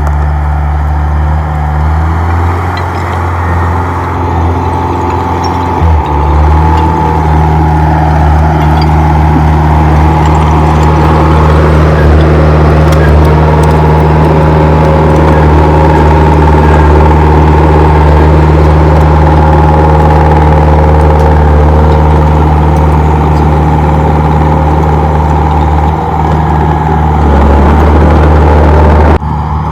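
Komatsu D31P bulldozer's diesel engine running loud and steady under working load. The engine note steps up about six seconds in, dips briefly near the end, then the sound changes abruptly.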